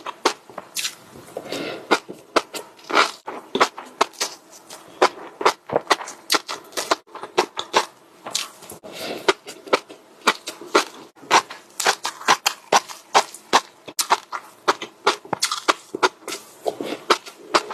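Close-miked chewing of crunchy food: a steady run of crisp crunches, about two or three a second.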